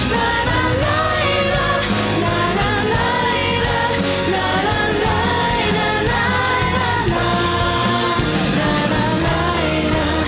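Japanese pop song: a woman singing over band accompaniment.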